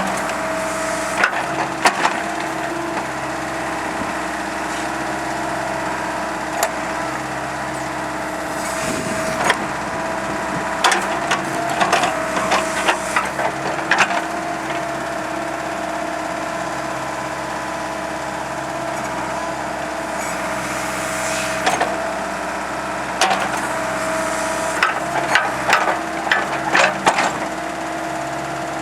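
Ford 555D loader backhoe's diesel engine running steadily, with clusters of sharp clanks and knocks over it, about a third of the way in and again near the end.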